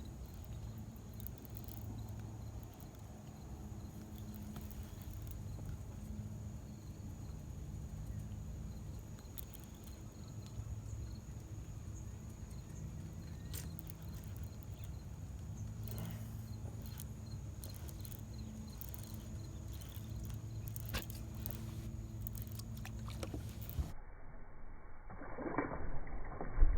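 Low steady rumble of wind and water noise with scattered small clicks and knocks. Near the end the sound turns duller and a few louder irregular knocks come in.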